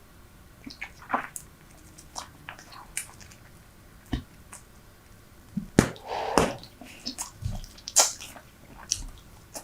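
Super Bubble bubble gum chewed close to the microphone: short wet smacks and clicks, sparse at first, then busier and louder from about six seconds in.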